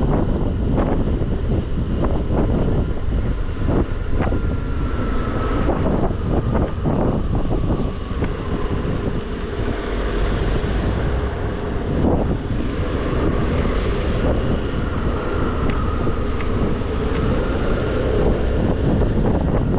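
Scooter riding along, wind buffeting the microphone heavily over the engine's drone, which slowly rises and falls in pitch.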